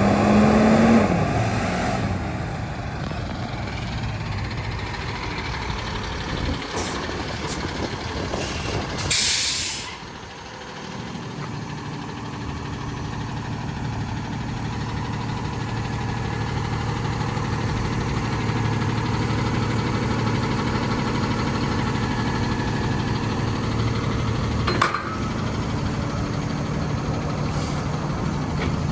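Freightliner M2 garbage truck's diesel engine running, its pitch falling in the first couple of seconds and then settling into a steady idle. A short, loud air hiss comes about nine seconds in, and there is a single sharp click near the end.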